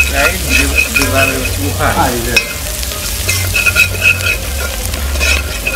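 Sliced seasonings and curry powder sizzling as they fry in hot oil in a heavy iron pot, while a metal spoon stirs and scrapes the pot with frequent short clinks. It is the curry powder being fried in oil to start a curry.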